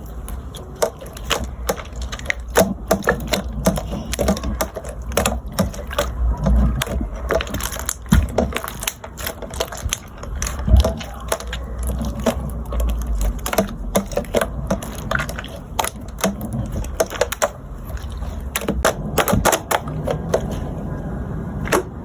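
Rapid, irregular clicks and taps, several a second, over a steady low rumble.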